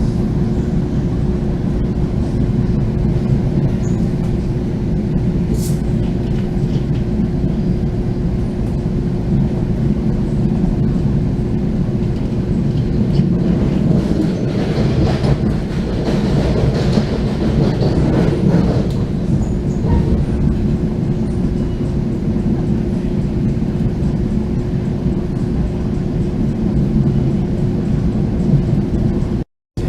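A train running: a steady low rumble with a constant hum, swelling a little about halfway through.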